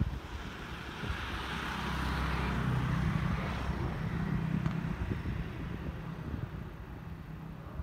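A passing train out of view: a low rumble with a steady hum and a rushing hiss swells about a second in, is loudest midway, then fades.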